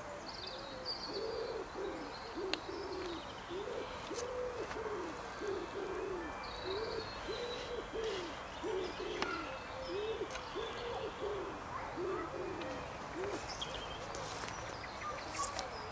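Birds calling: a low cooing call repeated over and over, about one and a half notes a second, stopping near the end, with higher chirps from small birds.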